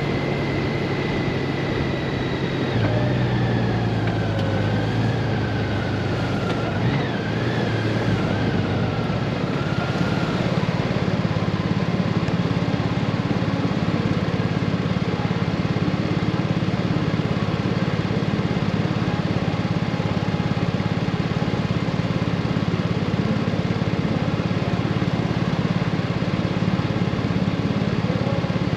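Honda Gold Wing motorcycle riding on the road: its engine runs steadily under an even rush of wind and road noise, and the engine note shifts about three seconds in.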